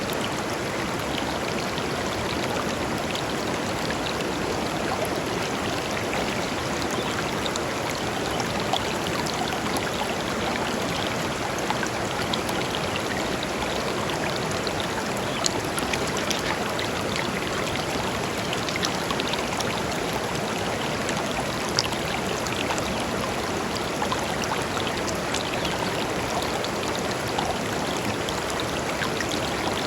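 A small river running steadily over stones, a continuous rush of flowing water with small splashes and drips scattered through it.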